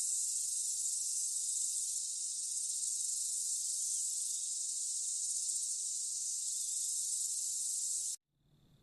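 A steady, high-pitched insect drone that cuts off abruptly about eight seconds in.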